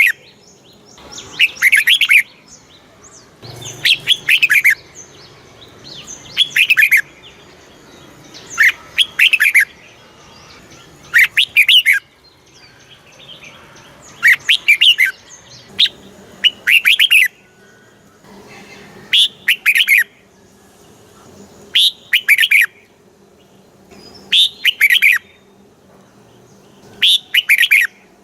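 Red-whiskered bulbul singing: short, bright, warbling phrases repeated about every two and a half seconds, about a dozen in all.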